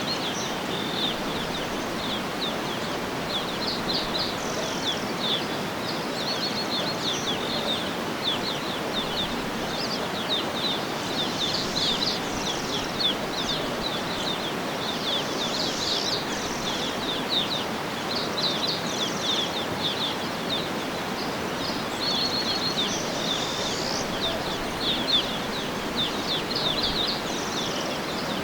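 Small birds chirping in quick, repeated high trills over a steady, even outdoor hiss.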